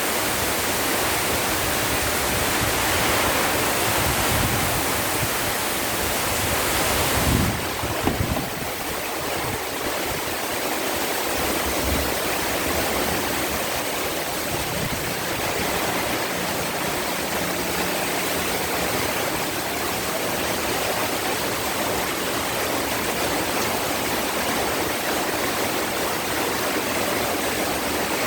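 Heavy rain pouring down in a steady, dense hiss. A brief low thump comes about seven seconds in.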